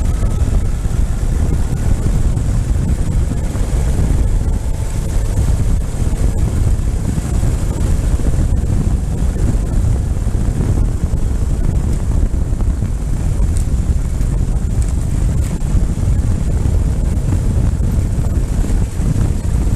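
Ural motorcycle being ridden, with wind buffeting the microphone over a steady low engine rumble.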